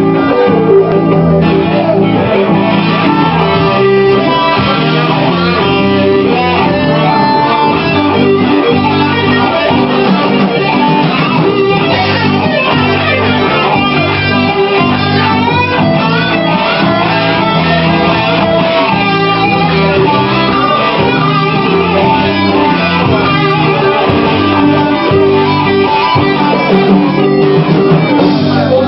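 A live band playing an instrumental passage led by guitar, without vocals.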